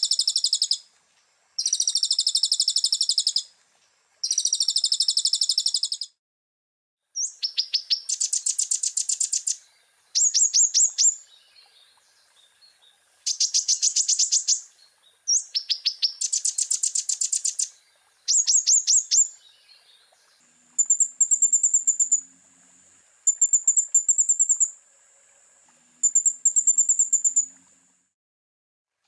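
Caged konin (kolibri ninja sunbird) singing a tutor song of repeated bursts of fast, high-pitched chattering trills, each about one to two seconds long with short pauses between them. In the last third the phrases become thinner, very high trills over a steady high thin note.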